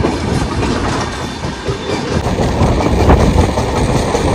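Howrah–Puri Shatabdi Express passenger train running along the track, its wheels rumbling and clacking over the rails, growing louder after about two seconds.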